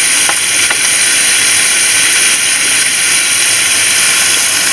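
Chopped onions, carrot, celery, salame and prosciutto sizzling steadily in a pan over a lively flame as they brown, the added wine cooking off.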